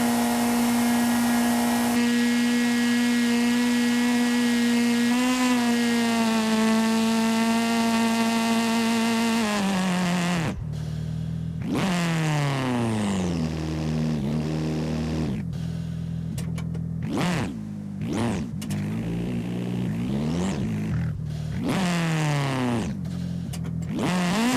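Video game car engine sound holding a steady pitch for about ten seconds, then dropping as the car slows and rising and falling in several quick revs.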